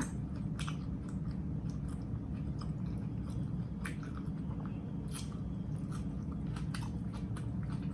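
A person chewing a mouthful of sandwich close to the microphone, with soft wet mouth sounds and scattered crunchy clicks from the bread and fillings.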